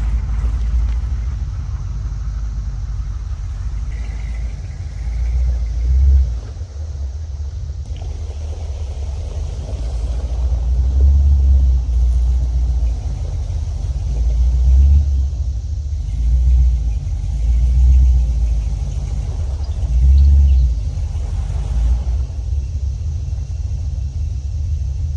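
First-generation Dodge Ram pickup driving over gravel: a low engine and road rumble that swells and eases every second or two.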